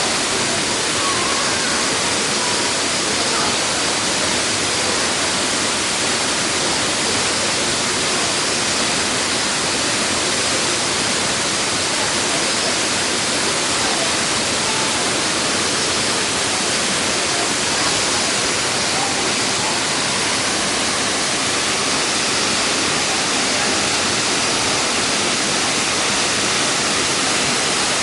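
Minoo Falls, a waterfall swollen with heavy flow after prolonged rain, giving a loud, steady rush of falling water.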